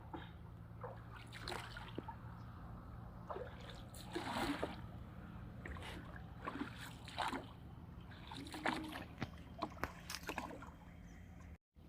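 Water splashing and knocking around a small rowboat on a reservoir, in short irregular bursts over a low steady hum.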